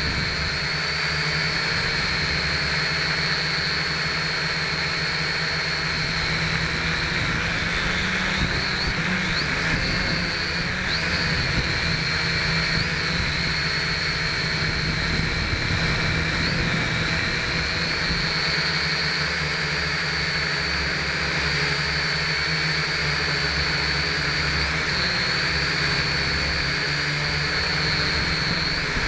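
Small RC quadcopter's brushed motors and propellers whining steadily in flight, heard close up from the camera it carries. The pitch wavers briefly now and then as the throttle changes.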